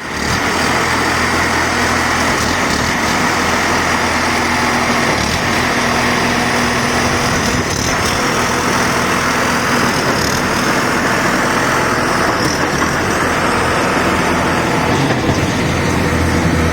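Diesel engine of a concrete mixer pump running steadily under load, with a few faint knocks from the machine.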